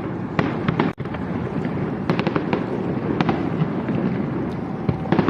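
Fireworks display going off in rapid succession: a continuous dense rumble of bursts with many sharp crackling reports on top. The sound cuts out for an instant about a second in.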